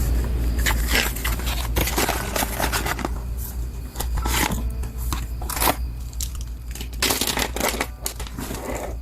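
Stationery packaging being handled and torn open: irregular crinkling, rustling and tearing with short sharp clicks, over a steady low hum.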